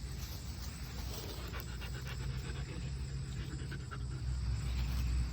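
A dog panting in quick breaths, over a steady low rumble.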